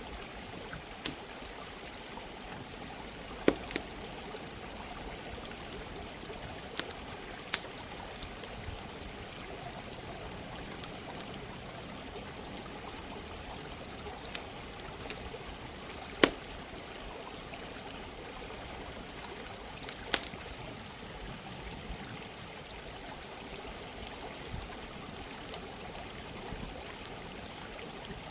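Running water flowing steadily, with a campfire crackling over it in irregular sharp pops every second or few seconds.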